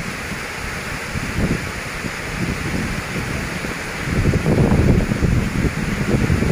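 Storm wind gusting against the microphone, rumbling and buffeting over a steady rushing hiss; the gusts grow stronger about four seconds in.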